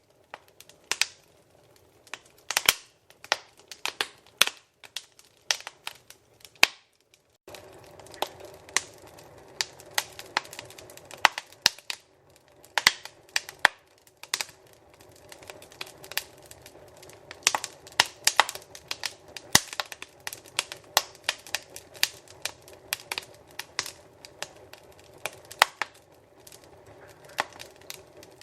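Wood fire in a fireplace crackling, with frequent irregular sharp pops and snaps. There is a short hush about seven seconds in; after it a soft steady rush sits under the crackles.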